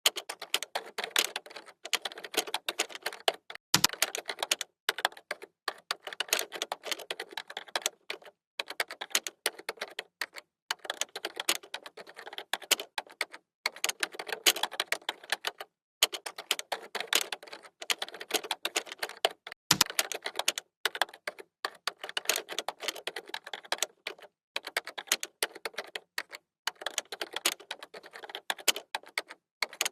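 Typing on a computer keyboard: rapid runs of key clicks in bursts of a second or two with short pauses between, and a low thump about four seconds in and again about twenty seconds in.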